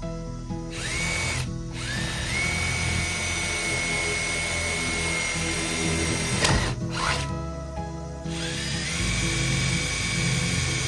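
Power drill whining in three runs: it spins up, stops briefly, runs steadily for several seconds, winds down, then starts again near the end. Background music plays underneath.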